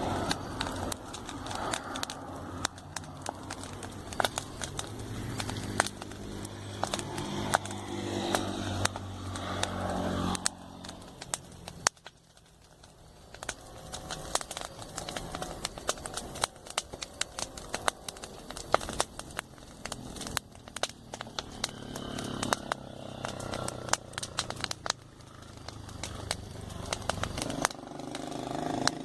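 Campfire crackling and popping steadily. Vehicles pass on the road: one engine swells and fades away about ten seconds in, and another builds near the end.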